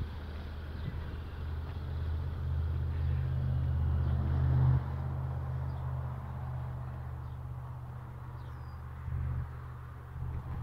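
2017 Ford Edge SUV's engine idling: a steady low hum that swells for a few seconds and then drops suddenly about halfway through.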